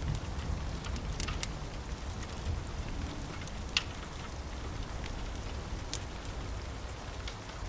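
Steady rain over a low rumble, with scattered sharp crackles and pops from a wood fire. The sharpest pop comes near the middle.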